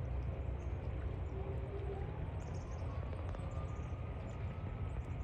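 Steady low outdoor rumble, with a faint siren slowly rising in pitch from about a second and a half in, and faint high bird chirps in the second half.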